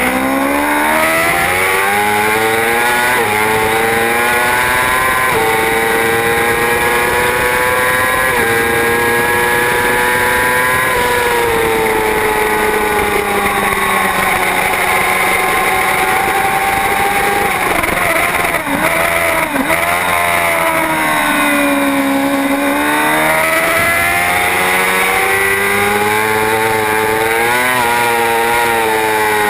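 Racing superbike engine at full race pace: the revs climb through several quick upshifts, fall away under braking with a cluster of short downshift blips about two-thirds of the way through, then climb hard again.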